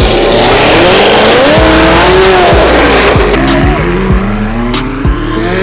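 A car engine revving, rising and falling in pitch, with tyres squealing, most loudly through the first three seconds, over music with a thumping bass beat.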